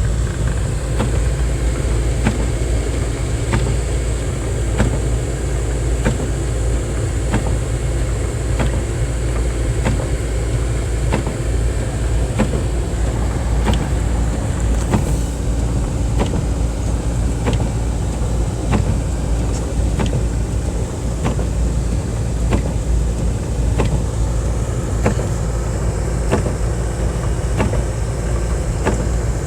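Car interior while driving: steady low engine and road rumble, with a short, regular tick about once a second.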